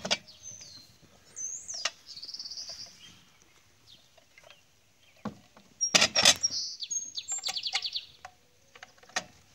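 Birds chirping and trilling in the background, with a few sharp knocks and clunks from a chainsaw power head being handled on a table; the loudest pair of knocks comes about six seconds in.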